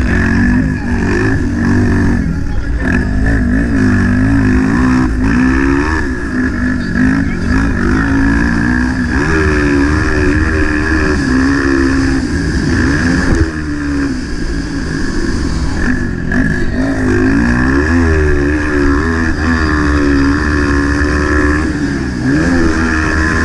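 Motocross bike engine being ridden hard, revving up and falling back over and over, its pitch rising and dropping every second or two over a steady low rumble.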